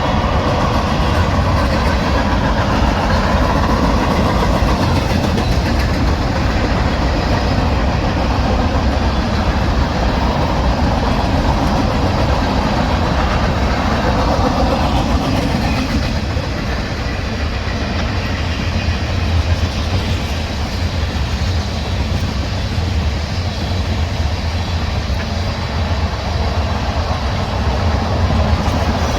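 A train rolling past, with a steady rumble of wheels on the rails.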